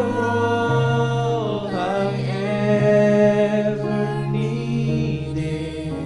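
Slow worship music: a voice singing long, gliding held notes over sustained keyboard chords, which change twice.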